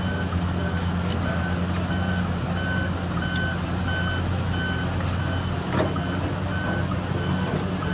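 Backup alarm of a heavy construction vehicle beeping steadily, about one and a half beeps a second, over a running diesel engine's steady hum. A single sharp knock is heard about three-quarters of the way through.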